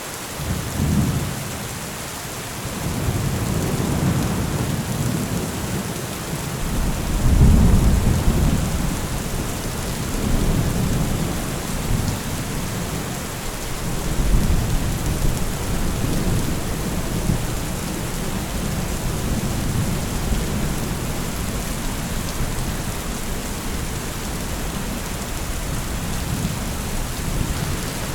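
Steady rain with rolling thunder: deep rumbles swell several times, the loudest about seven seconds in, then settle under the even hiss of the rain.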